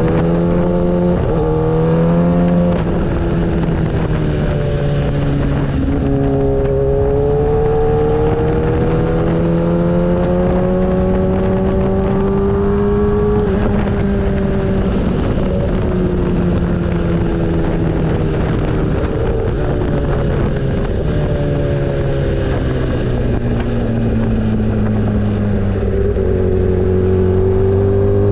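Motorcycle engine running under way, its pitch rising and falling slowly with the throttle, over a steady rush of wind and road noise.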